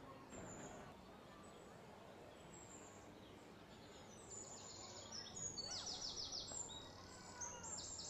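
Outdoor ambience with birds calling. From about four seconds in, a bird gives rapid runs of high, quick chirps, several a second, in two bursts.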